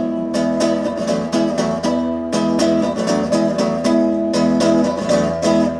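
Guitar strummed in a steady rhythm of quick, even chord strokes, several a second, playing out the end of a song after the last sung line.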